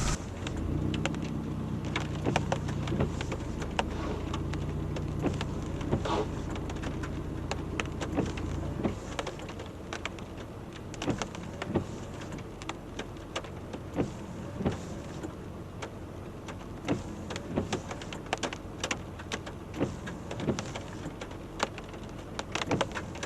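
Subaru Outback heard from inside the cabin on a rough dirt road: the engine hums steadily for about the first nine seconds, then its note drops away, leaving frequent sharp knocks and rattles as the car jolts over the bumps.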